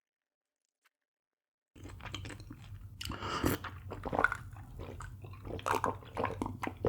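Close-miked mouth sounds of a person chewing and biting food, starting after nearly two seconds of silence, with a low steady hum underneath.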